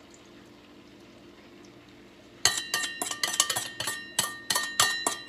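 A metal utensil clinking repeatedly against a metal pan, about a dozen quick strikes with a bright ringing tone, starting a little over two seconds in.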